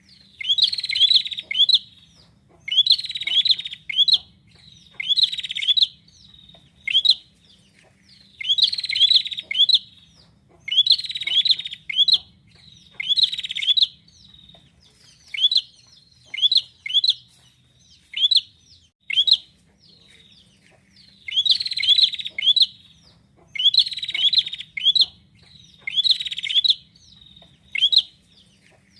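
Prinia (prenjak) singing: bursts of rapid, buzzy chirping with sharp sweeping notes, repeated about every two seconds. Through the middle the bursts give way to a run of single sharp notes before the buzzy bursts return.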